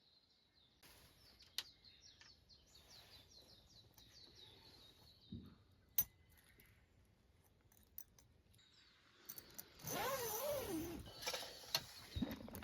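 Faint rapid series of short high chirps, about four or five a second, lasting some four seconds, with a few sharp clicks; near the end a louder wavering sound over a noisy background.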